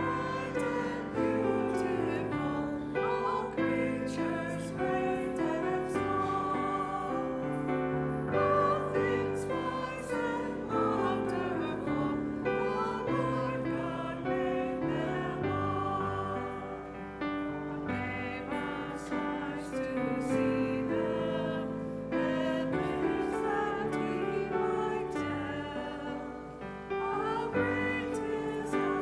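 A hymn sung to piano accompaniment, with slow, long-held notes over piano chords.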